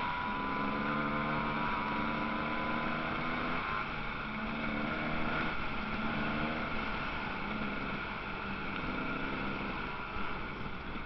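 Motocross bike engines running, their pitch stepping up and down every second or two as the riders work the throttle.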